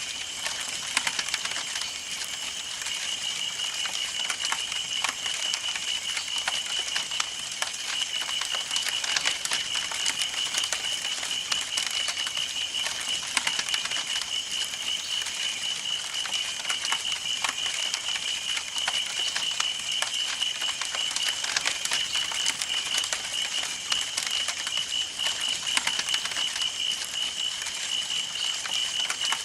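Campfire burning: wood crackling and popping in dense, quick, irregular clicks, over a steady high pulsing tone.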